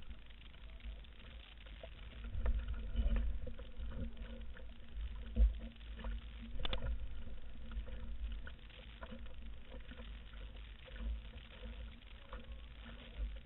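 Canoe on open water: wind gusting on the microphone, with water sounds and scattered light knocks.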